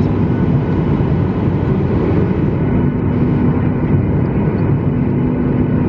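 Steady, loud rumble of an airliner cabin, with a low engine hum that fades in and out.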